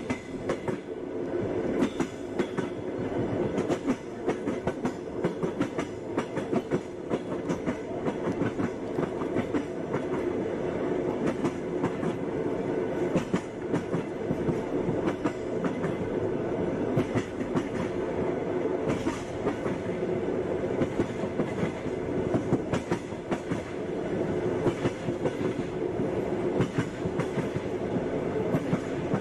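Passenger train running along the track: a steady rumble of the carriage with the wheels clacking over rail joints, many sharp clicks through the whole stretch.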